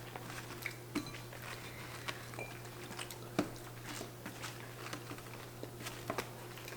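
Quiet eating of chicken nuggets: scattered small clicks, taps and mouth noises, irregular and a few a second at most, over a steady low electrical hum.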